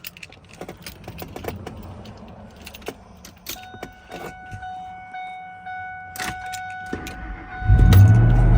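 Keys jingling and clicks in the car, then a steady electronic warning tone. Near the end the engine cranks and catches on a cold start, starting with a loud, deep rumble that keeps running.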